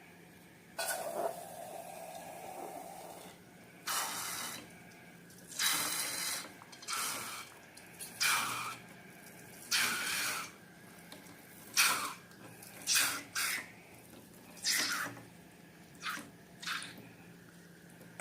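Wet slime squelching in a series of short bursts, about one a second.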